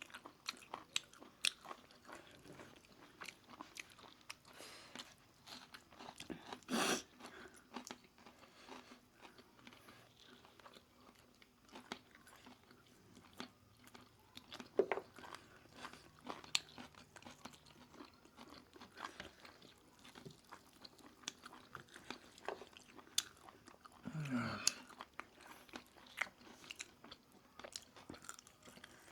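Close-miked chewing and biting of food, mostly roast chicken, with many small mouth clicks and crunches. A louder noisy burst about seven seconds in, and another near the end that drops in pitch.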